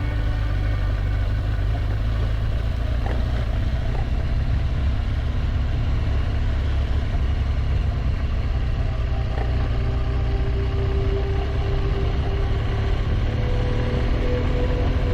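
A BMW R1200GS boxer-twin motorcycle running under way, heard as a steady low rumble. Its engine note climbs in pitch near the end.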